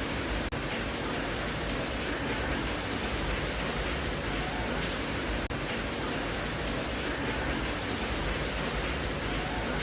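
Steady rain, an even hiss of falling water, with a very brief dip in loudness about half a second in and again just past the middle.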